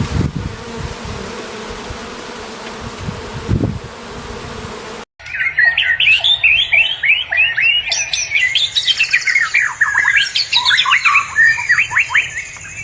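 A steady noisy hiss with some low thumps, then after an abrupt cut a bird's rapid squawking and chirping calls, many short rising and falling notes in quick succession.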